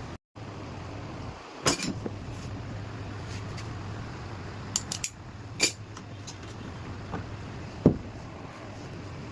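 A handful of sharp metallic clinks and knocks from tools and parts being handled during a car steering repair, the loudest near the end, over a steady low hum.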